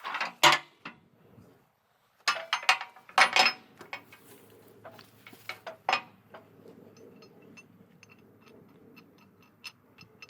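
Metal clanking and rattling in a few sharp bursts, then a run of light metallic ticks, about three a second.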